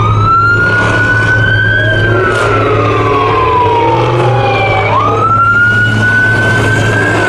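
Police car siren in a slow wail: the tone jumps up, climbs a little, then sweeps slowly down, one cycle about every five seconds, heard twice over a steady low hum.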